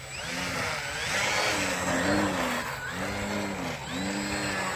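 Electric motor and propeller of an RC model plane whining, its pitch rising and falling about once a second as the throttle is worked, over a hissy propeller rush.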